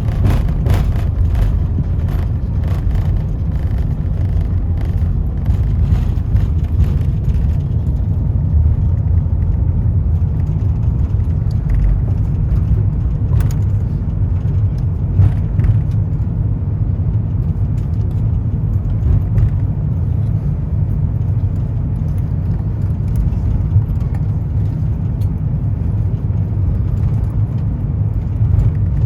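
Airbus A350-900 cabin noise: a loud, steady low rumble, with light rattling and clicking through the first several seconds that then dies away.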